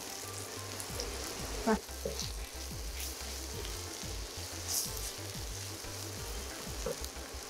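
Shallots and dried red chillies frying in oil, sizzling steadily, with a wooden spatula stirring and scraping the pan now and then.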